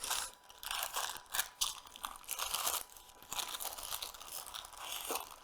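Baking paper crinkling and rustling in a string of short, irregular rustles as a log of herb butter is rolled up in it and the paper's ends are twisted.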